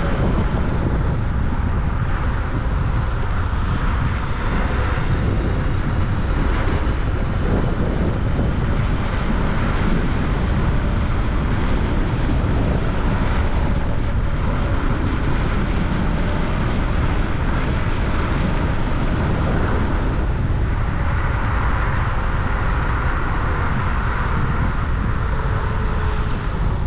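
Steady wind and road noise from a moving ride, a heavy low rumble with faint steady tones above it.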